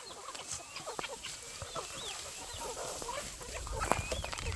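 A flock of chickens clucking and calling, many short overlapping calls, with a sharper knock near the end.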